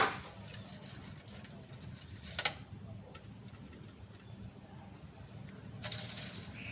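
Handling noises during car work: a sharp knock at the start, a short clatter about two and a half seconds in, and a scraping rustle near the end.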